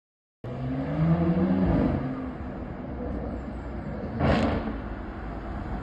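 After half a second of dead silence, a car engine revs up in pitch and eases back down, then runs on with a rumble and a short louder burst about four seconds in.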